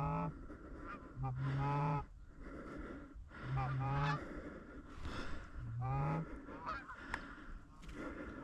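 Goose honking: a two-note honk that breaks upward, repeated four or five times, one every second or two.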